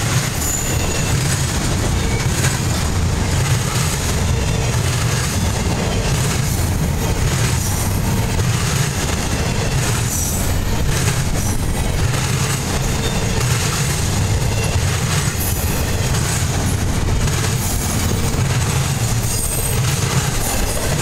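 Empty double-stack intermodal well cars of a freight train rolling steadily past: a continuous low rumble of steel wheels on the rails, with short high-pitched wheel squeals now and then.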